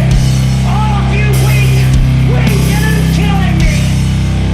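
Slow, heavy sludge metal: a held, distorted low guitar and bass drone, with a deep drum hit about every two seconds and bending higher notes sliding up and down above it.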